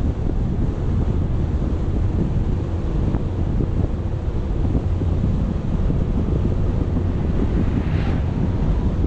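Wind buffeting an action camera's microphone: a loud, steady low rumble, with a brief hiss swelling up about eight seconds in.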